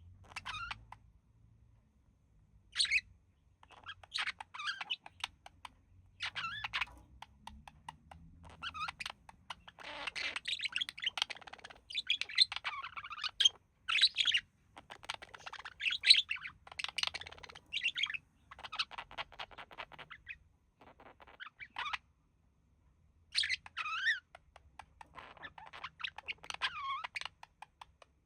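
Budgies chirping and warbling in a run of short, rapid calls, busiest in the middle, with a brief pause near the end.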